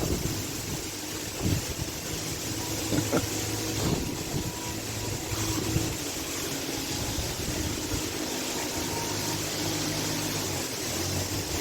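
Steady low mechanical hum over a background hiss, with a few faint short sounds.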